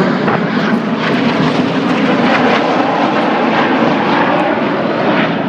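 Aircraft flying past, its engine noise loud and steady, easing slightly near the end.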